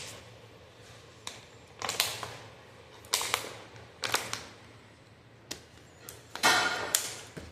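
Drinking water, with the water bottle being handled: a string of sharp clicks and short rustling bursts about a second apart, the longest and loudest near the end.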